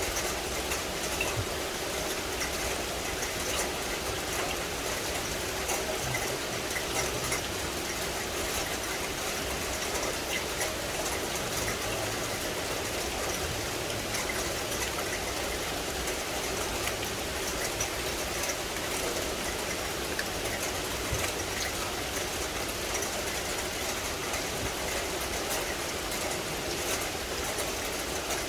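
Steady rain falling in a forest: an even hiss with many small drop ticks.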